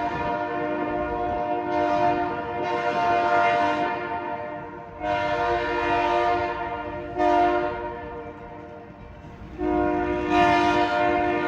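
Freight locomotive's multi-chime air horn sounding two long blasts, a short one and a long one, the pattern of the grade-crossing signal, over the low rumble of the approaching train.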